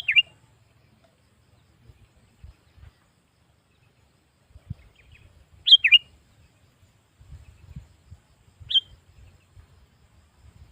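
Sooty-headed bulbul (kutilang) giving three short calls several seconds apart: one at the start, one about six seconds in and one near the end. The first two are quick two-note chirps falling in pitch.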